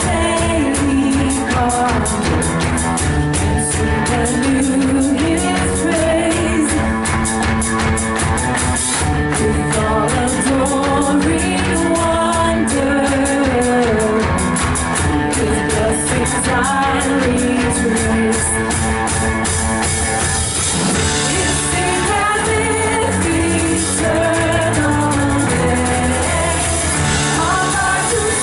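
Worship band playing a rock-style song: a singer over guitar and drum kit with a steady beat.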